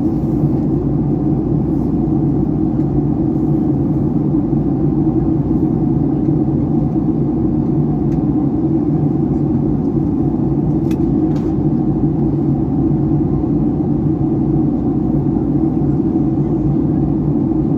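Steady cabin noise inside a Boeing 757-300 airliner: an even, low rumble of engines and airflow.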